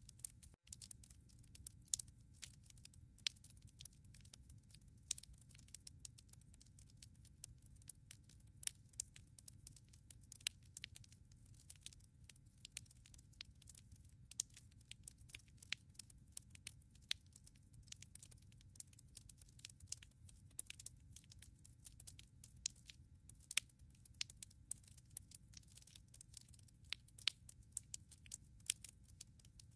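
Firewood burning in a fireplace, crackling with irregular sharp snaps and pops over a low steady rumble of the flames.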